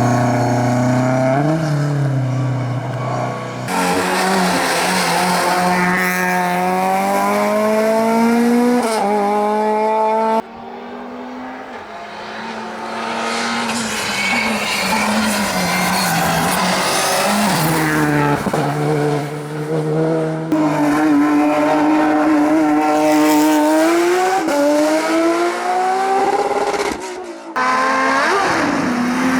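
Rally and hillclimb competition cars accelerating hard up the course, engines revving up through the gears with a rising pitch that drops at each gear change. The passages are cut one after another, each a different car.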